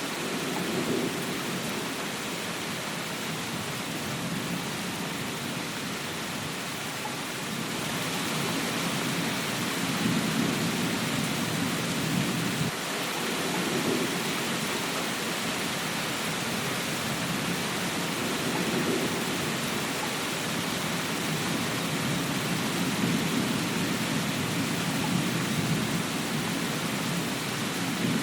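Steady heavy rain hissing, with low rumbles swelling and fading underneath. The rain grows a little louder about eight seconds in.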